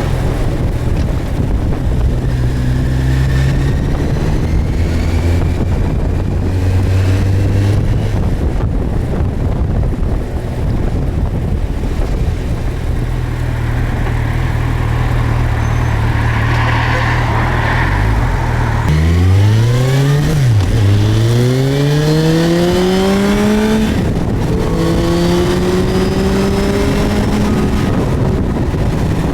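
Suzuki GSX1250FA's inline-four engine running steadily under way with wind rush, then accelerating hard about two-thirds of the way in: the revs climb, drop at a gear change, and climb again through the next gears.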